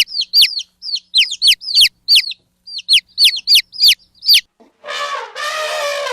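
Chicks peeping: a quick series of about a dozen short, high chirps for some four seconds. Near the end a long, steady-pitched animal call begins.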